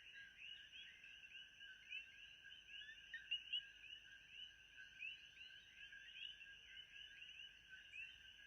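Faint, continuous ambience of a dense chorus of short, overlapping chirping animal calls, with a steady thin high-pitched hum underneath.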